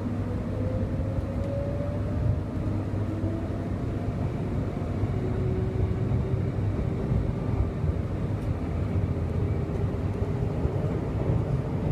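Inside a Queensland Rail electric suburban train pulling away from a station: a steady low rumble, with a faint motor whine that rises slowly in pitch over the first few seconds.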